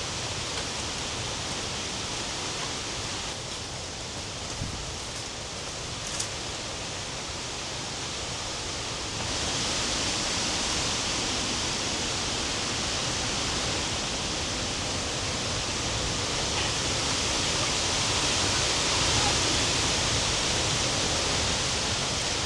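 A steady rushing hiss with no tone in it, which gets louder about nine seconds in.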